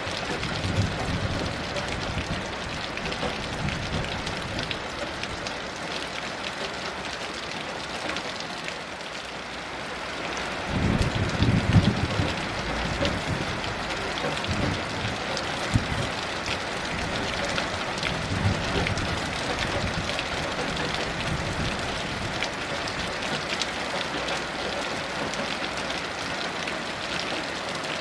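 Heavy rain falling steadily, with low rumbles of distant thunder rolling in now and then, the loudest a few seconds long about eleven seconds in.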